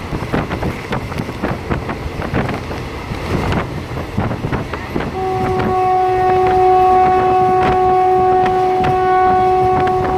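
Diesel railcar running on the rails, a rattling clatter with rush of wind, then its horn sounds one long steady blast starting about halfway through, held for several seconds.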